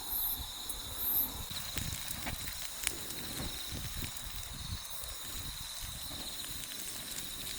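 Insects trilling steadily in a constant high chirring, with a few faint clicks.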